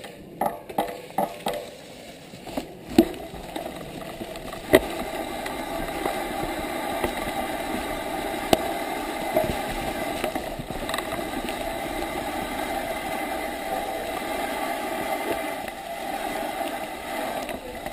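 Bicycle rolling downhill on a wet trail: a steady rush of tyre noise, with a string of sharp knocks and rattles over bumps in the first few seconds.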